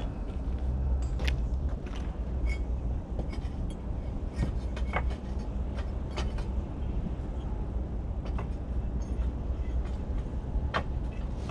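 Bricks being set and shifted on a dry-laid fireplace, with scattered sharp clicks and knocks of brick on brick about once or twice a second, over a steady low rumble.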